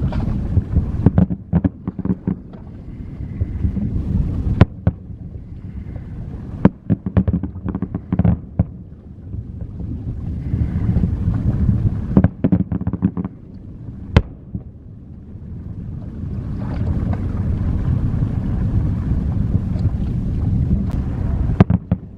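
Aerial fireworks bursting: clusters of sharp bangs and crackles over a continuous low rumble. In the later part the rumble is steadier and the cracks are fewer.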